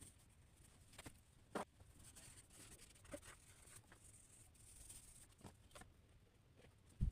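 Faint scratching of a drawing tool across paper, coming and going in short strokes, with a few light taps and one louder knock at the very end.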